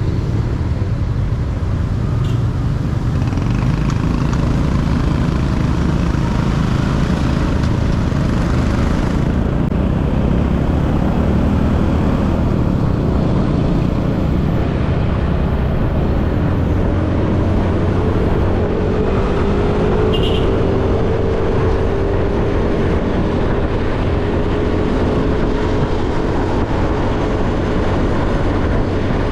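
Motorcycle ride heard from the rider's seat: the bike's engine running steadily under a heavy low rumble of road and wind noise. About halfway through a faint steady tone rises in and holds to near the end.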